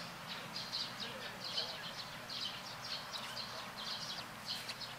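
Small birds chirping, quick high-pitched calls several times a second in irregular clusters, over a steady background hiss.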